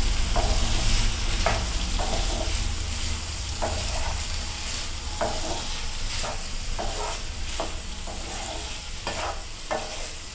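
Mutton liver pieces sizzling in oil in a pan as a wooden spatula stirs them, with irregular scrapes and knocks of the spatula against the pan. The sizzle slowly gets quieter.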